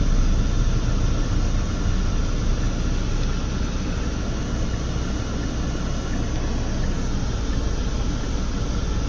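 Steady road and engine noise heard inside a moving car's cabin: a low rumble with a hiss above it, with no sudden events.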